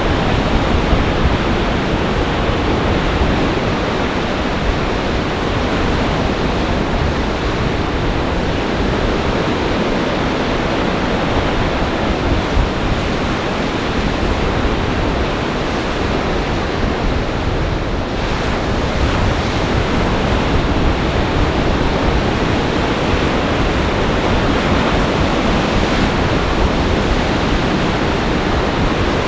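Storm waves on Lake Michigan in a winter gale: a loud, steady rush of surf, with gale-force wind buffeting the microphone in a low rumble.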